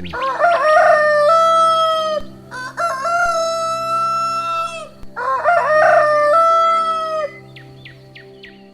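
Rooster crowing three times. Each crow is about two seconds long: a few short broken notes rising into one long held note that ends abruptly.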